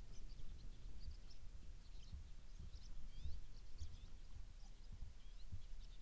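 Faint high chirps and short gliding calls of small birds, several scattered through, over a low, uneven rumble.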